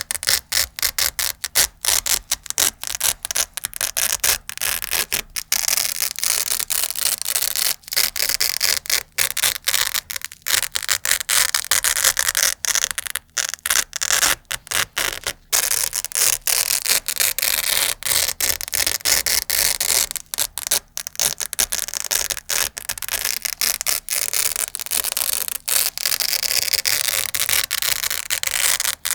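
Velcro (hook-and-loop) strips being pulled apart and scratched over and over: a rapid, crackly tearing broken by many brief pauses.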